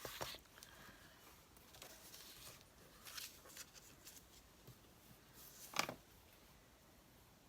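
Faint rustling and handling of paper and craft tools on a work surface, with a louder brief scrape about six seconds in.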